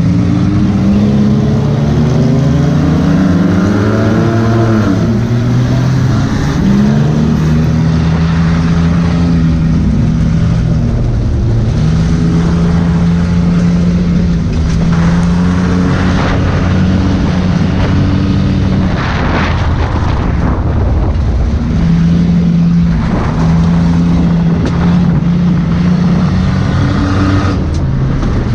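Several enduro race cars' engines running together as the field laps the track, their pitches rising and falling as cars accelerate and lift.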